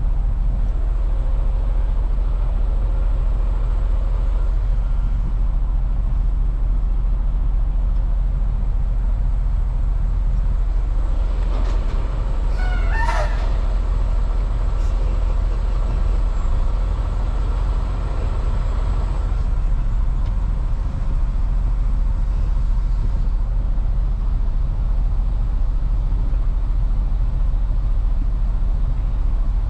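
Steady low rumble of heavy diesel engines idling. About twelve seconds in comes a brief squeal, wavering in pitch, with a few sharp clicks.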